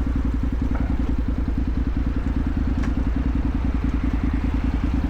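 Motorcycle engine running steadily, its firing a rapid, even low pulsing.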